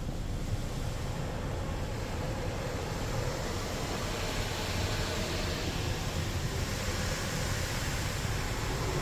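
Ryko SoftGloss Maxx 5 automatic car wash working over the car, a steady rushing noise that swells a little about four seconds in.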